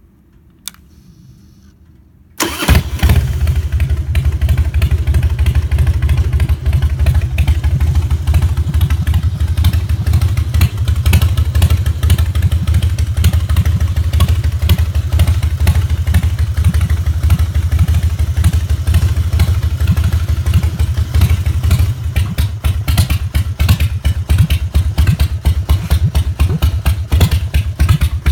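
A 2000 Harley-Davidson Softail Standard's 1450 cc Twin Cam V-twin with Vance & Hines mufflers: a click, then about two seconds in the engine starts and settles into a loud idle with a slightly uneven beat.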